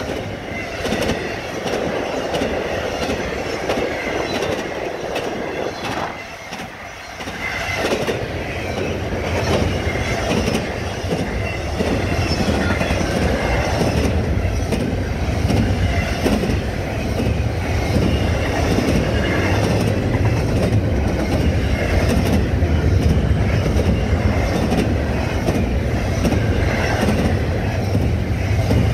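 Double-stack intermodal freight train rolling past at close range: a steady deep rumble from the loaded well cars, with wheels clicking over the rails. The sound dips briefly about six seconds in, then returns.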